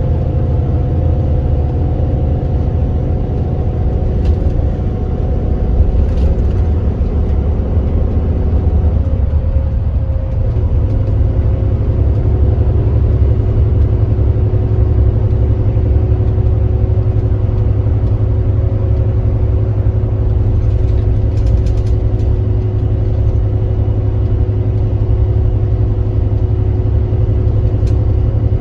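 Kia Granbird Sunshine coach's diesel engine running steadily under way, with a deep low rumble; about nine seconds in the engine note changes, a higher tone dropping out and others shifting.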